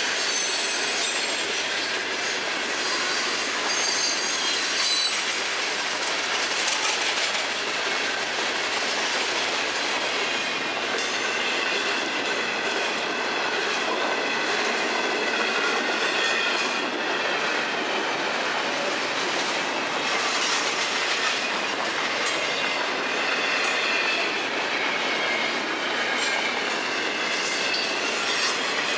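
Freight cars of a long Florida East Coast Railway train rolling past at speed: steady wheel-on-rail noise with clickety-clack and a wavering high-pitched wheel squeal that comes and goes.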